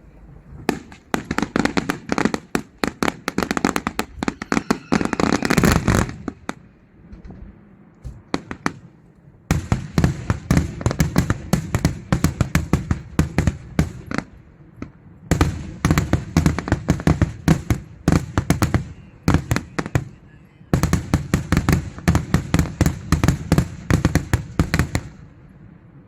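Daytime fireworks going off in four volleys of rapid, loud bangs, each lasting several seconds, with brief pauses between them.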